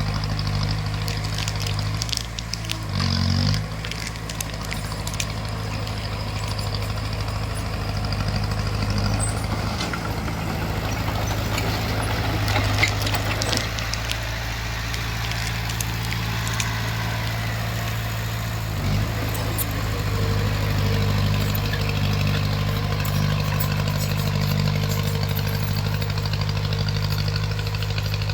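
Bulldozer's diesel engine running steadily, with scattered clanks and rattles, most of them between about 10 and 14 seconds in.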